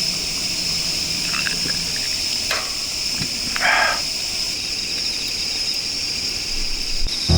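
Insects chirring steadily in a high, even drone, with a few faint clicks and one short noisy rustle a little past the middle.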